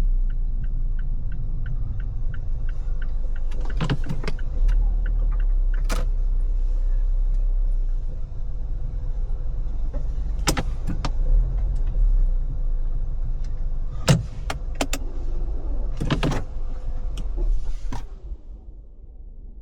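Car moving slowly with a steady low road rumble. A turn-signal relay ticks about three times a second for the first few seconds, followed by several sharp clicks and knocks. The rumble drops away near the end as the car comes to a stop.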